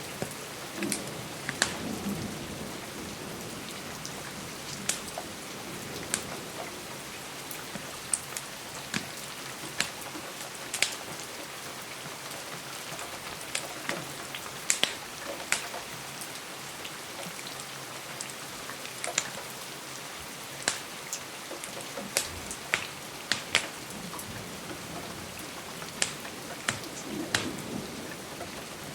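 Steady rain on a window with irregular sharp pops and crackles from a wood fire. A soft low rumble of distant thunder comes in the first couple of seconds and again near the end.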